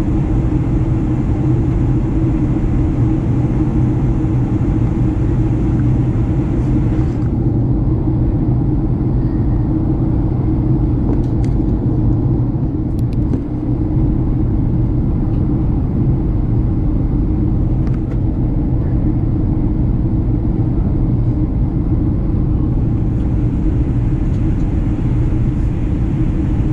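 Steady low rumble of a Boeing 737-900ER's cabin: engine and airflow noise. The higher hiss dulls from about seven seconds in until shortly before the end, with a few faint clicks.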